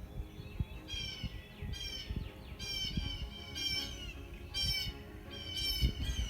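A songbird giving a repeated series of short, harsh, buzzy calls, about one or two a second, starting about a second in.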